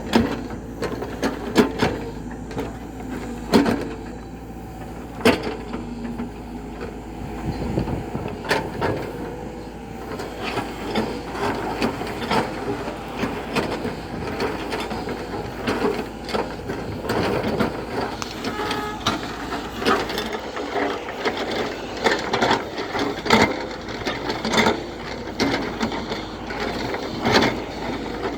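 JCB backhoe loader at work: irregular clanks, knocks and rattles, from the bucket and its load, over the steady sound of the running machine.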